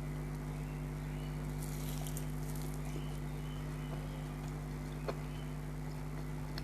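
Quiet chewing of food, with a few faint crunchy clicks and a short crackly patch about two seconds in, over a steady low electrical hum.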